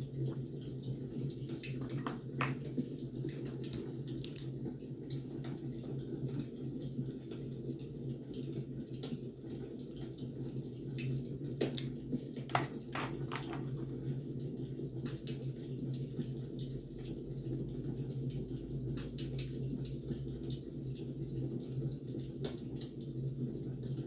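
Wood fire crackling: scattered sharp pops and snaps over a steady low rumble, with a few louder pops about halfway through.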